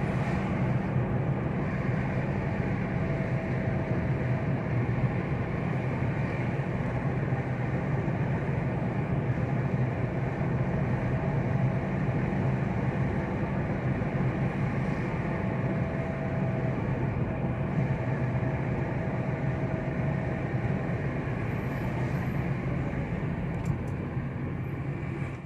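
Steady engine and road noise of a car being driven, a continuous low rumble with no change in pace.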